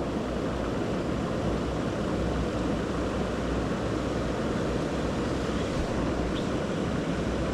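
Steady wind rumble buffeting the microphone, a dense low roar with no pitch or rhythm.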